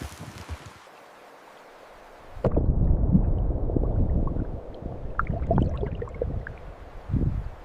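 Water gurgling and sloshing with a low rumble and scattered bubbling blips, starting suddenly about two and a half seconds in after a faint steady hiss.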